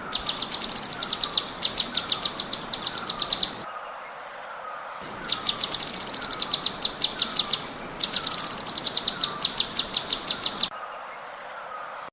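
A songbird's rapid run of sharp, high chirps, about nine a second, in three bursts of roughly three seconds each. Under it, a fainter descending chirp repeats about every half second, as on a bird-song training recording.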